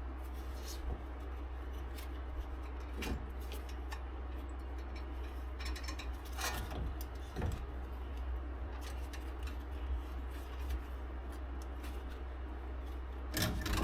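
Scattered light clicks, scrapes and rustles of copper wire being twisted to hang a removed brake caliper, over a steady low hum.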